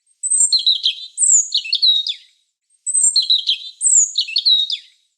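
A songbird singing a short, high-pitched phrase of quick notes, trills and falling sweeps. The same phrase comes twice, about two seconds each, with a brief pause between.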